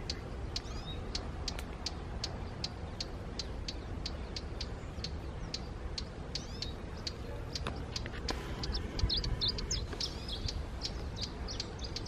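Small birds chirping: a steady run of short high notes about three a second, joined in the second half by a flurry of quicker twittering calls, over a low steady rumble.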